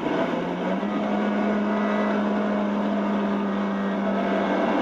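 Honda Civic Type R's four-cylinder engine pulling at high revs on track, heard as onboard footage played back through laptop speakers. This is the engine before its fuel mapping was tuned. The steady engine note steps up in pitch about a second in.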